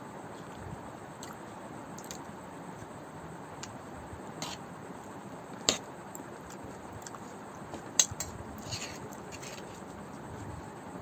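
Someone eating Maggi noodles with mutton gravy: soft chewing and squishing sounds over a steady hiss, with a few sharp clicks, the loudest about halfway through and again a little later.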